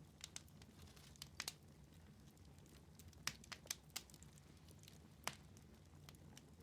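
Wood fire crackling in a fireplace: faint, scattered sharp pops with a quick cluster about three to four seconds in, over a low steady hum.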